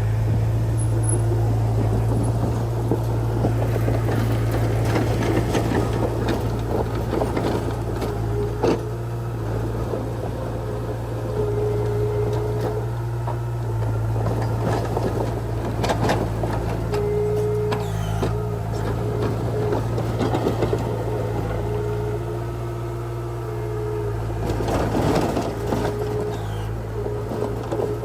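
Heavy earthmoving machine's diesel engine running steadily under work, with a higher whine that comes and goes and repeated clattering and crackling.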